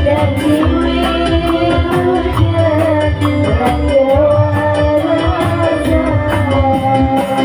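Loud music with a singing voice over a repeating bass beat, played through a large PA sound system on a sound check.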